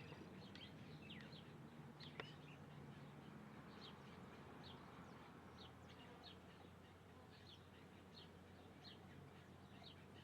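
Faint small-bird chirps: many short, high notes sliding downward, a few each second at irregular intervals, over a low steady hum. A single sharp click about two seconds in.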